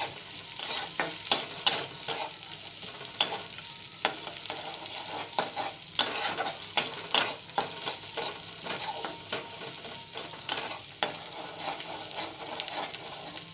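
Chopped onion, garlic, ginger and nuts frying and sizzling in oil in a pan, stirred with a utensil that scrapes and clicks against the pan at irregular moments.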